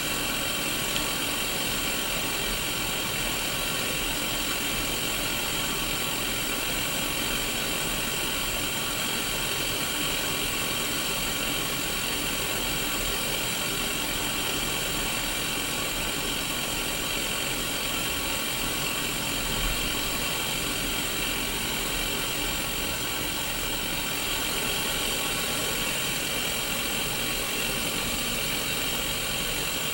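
Steady static hiss from a Sony Mega Watchman mini black-and-white CRT TV showing white noise, with a low hum underneath.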